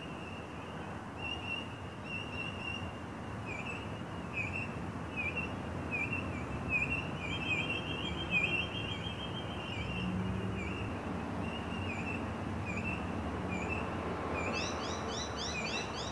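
Birds calling at dusk: a short high chirp repeated about every half second, a brief trill about halfway through, and a quick run of sweeping notes near the end, over a steady low background rumble.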